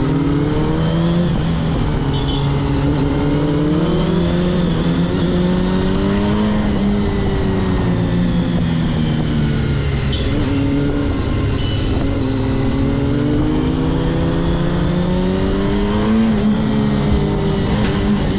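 Honda CBR250RR MC22's inline-four engine running at high revs on the move, its pitch slowly rising and falling as the throttle changes.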